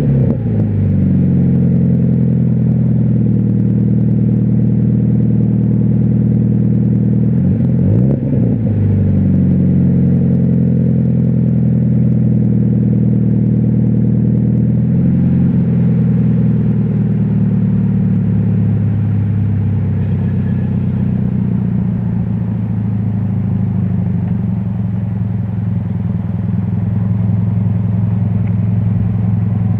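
Subaru BRZ's flat-four boxer engine idling through a Tomei 80R 3-inch titanium exhaust. The revs settle from a rev at the start, with a short throttle blip about eight seconds in and a smaller one around fifteen seconds.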